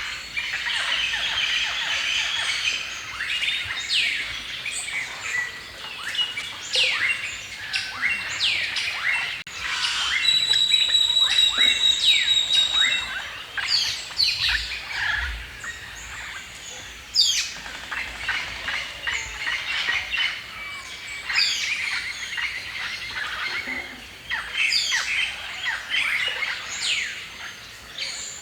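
Several birds singing and chirping together in a forest chorus, many quick sweeping chirps overlapping. Around the middle a clear, steady whistled note is held for a few seconds over the chorus.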